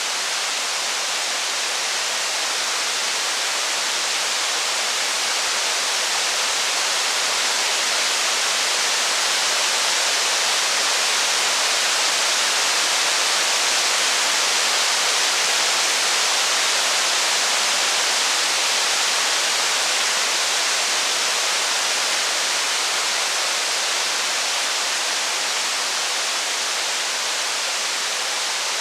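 Steady rain, a dense even hiss that swells a little toward the middle and eases again, with no crackles or thunder standing out.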